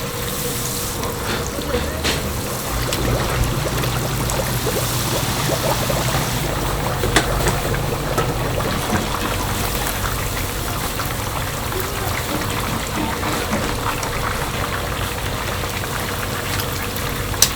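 Chicken deep-frying in hot oil: a steady sizzle with many small crackles and pops, over a low, steady hum.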